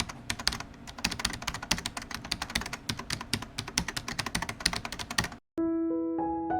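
Rapid keyboard typing: a dense run of clicks that stops suddenly about five and a half seconds in. After a moment of silence, soft piano music begins.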